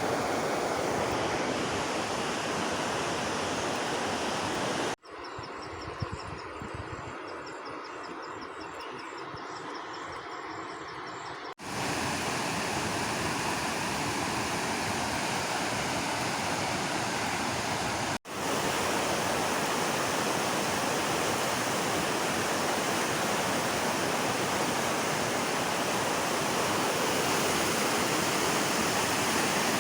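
Steady, dense rushing of water. A sudden cut about five seconds in drops it to a quieter hiss with a faint, rapid high-pitched ticking for several seconds, then the full rush returns, with another brief break past the middle.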